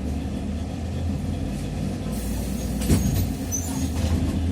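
Inside the cabin of a TrolZa-5275.05 Optima trolleybus on the move: a steady low hum from the running gear. About two seconds in there is a brief hiss, and a single sharp knock follows a little before three seconds in.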